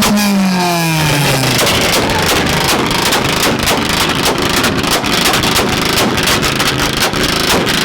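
A car engine in a 2-step rev battle: revs falling off the launch limiter in the first second or so, then a rapid, irregular string of crackling pops and bangs from the exhaust.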